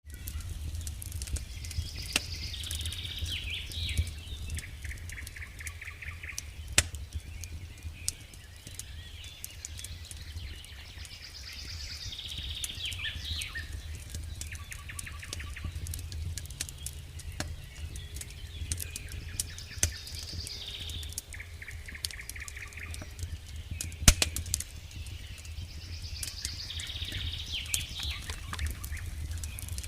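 Campfire crackling, with scattered sharp pops and a loud one about 24 seconds in, over a steady low rumble. A songbird sings the same trilling phrase about every seven to eight seconds.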